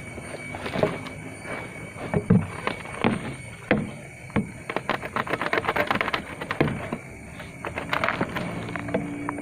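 Yellow bamboo being cut and handled: irregular knocks and sharp cracks of wood, with a dense run of clattering strikes around the middle.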